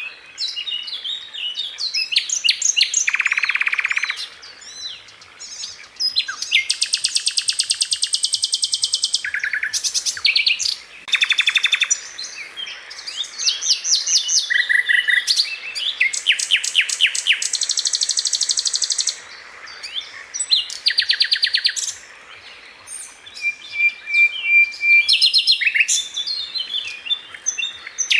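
Sikatan londo songbird singing: fast, tightly packed trills and rapid repeated high notes in bursts of a second or two, with short pauses between them.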